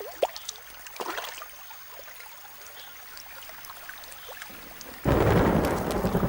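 Quiet rainforest with a few brief chirps and clicks, then about five seconds in a heavy tropical downpour starts suddenly and loudly, with a deep rumble under the hiss of the rain.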